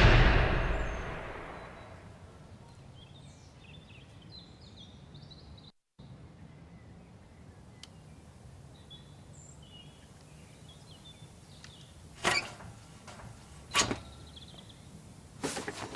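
The tail of a loud bang dying away over about two seconds, leaving a quiet outdoor background with faint, scattered high chirps. Two sharp knocks come about twelve and fourteen seconds in, and a quick cluster of knocks near the end.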